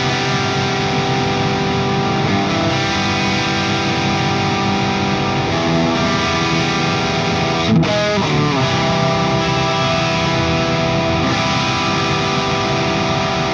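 Distorted electric guitar playing sustained, ringing chords on a 1999 Gibson Les Paul Classic fitted with Righteous Sound Gold Tooth humbuckers, through a Friedman Small Box 50 amp. There is a brief slide in pitch about eight seconds in.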